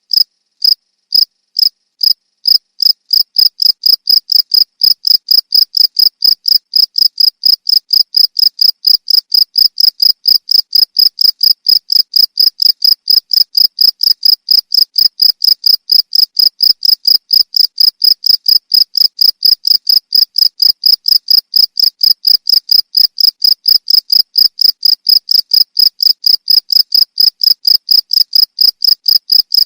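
A cricket chirping: loud, clear, high chirps repeated evenly at about three a second, a little more widely spaced for the first couple of seconds.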